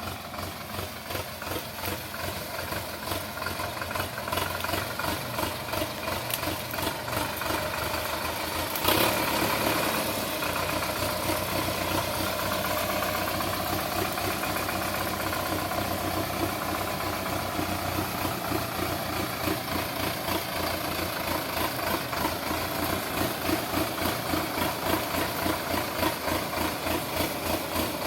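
Sonalika DI 750 tractor's diesel engine running with an even beat, with a brief louder burst about nine seconds in.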